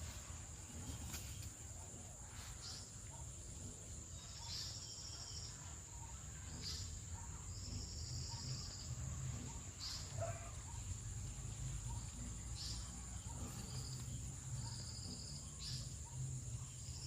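Evening insect chorus: a steady high-pitched drone with short buzzing trills repeating every second or two, a few faint bird chirps, and a low rumble underneath.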